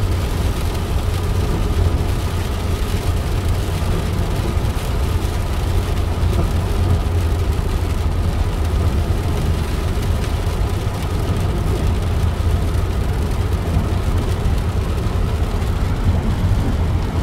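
Steady low rumble of a car driving along, engine and tyre noise with no distinct events.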